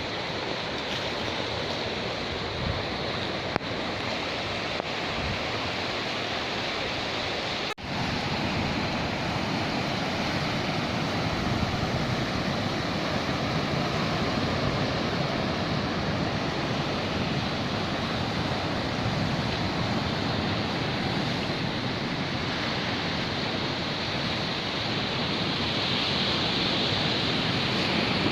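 Sea surf rushing steadily on a rocky shore, an even wash of water noise. It breaks off for an instant about 8 seconds in and then carries on a little louder.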